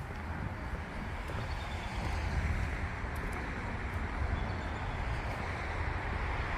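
Steady road traffic noise from a highway, growing a little louder about two seconds in, over a low rumble.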